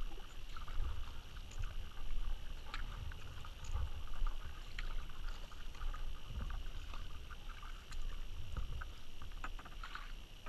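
Kayak paddling: the paddle dipping and pulling through the water in repeated strokes, about one every second or so, with splashes and drips.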